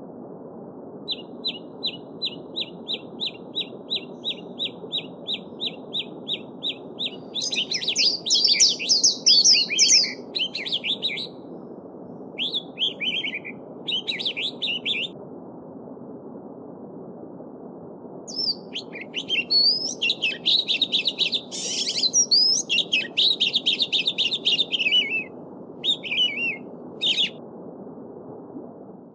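Steady rush of a babbling forest stream with small songbirds singing over it. One bird repeats a short note about three times a second for the first several seconds, then more complex, warbling song phrases come and go through the rest.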